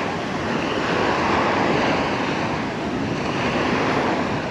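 Sea waves washing onto the beach, a steady rushing surf that swells and eases, with wind on the microphone.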